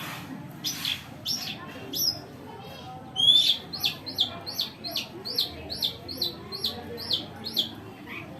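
Songbird calling: scattered sharp chirps, then from about three seconds in a fast run of a dozen repeated, clipped rising-and-falling notes, about two and a half a second.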